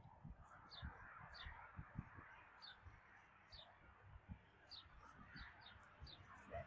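Birds calling outdoors: a small bird gives repeated short, high, downward chirps, over fainter bird calls, with soft low thumps scattered throughout.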